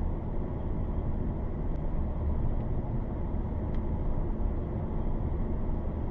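Thunderstorm ambience: a steady low rumbling rush of wind, with no distinct thunderclap.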